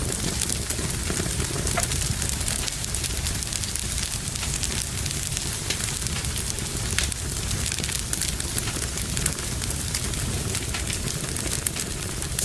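Wood fire burning in a fireplace: steady crackling, with frequent small sharp pops over a low rumble and hiss.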